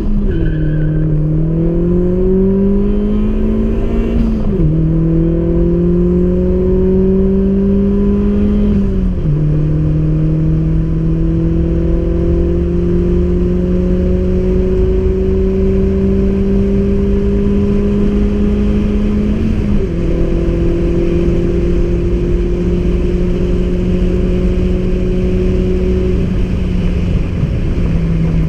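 Tuned 270 hp Opel Astra Bertone coupé accelerating hard through the gears: the engine note climbs, then drops at upshifts about 4, 9 and 20 seconds in. The climb gets slower in each higher gear and is almost level in the last.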